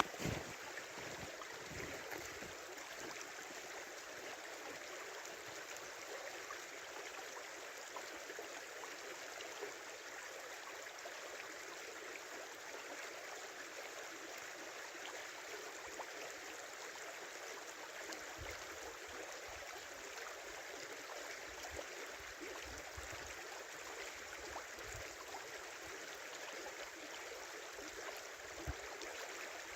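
Small river running steadily, an even rushing and babbling of water, with now and then a brief low thump.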